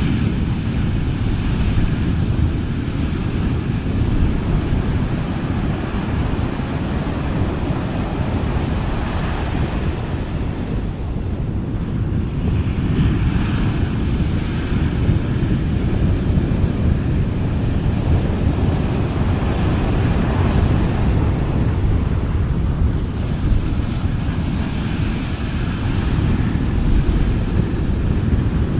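Small sea waves washing onto a beach, rising and falling softly every few seconds, with a steady rumble of wind on the microphone.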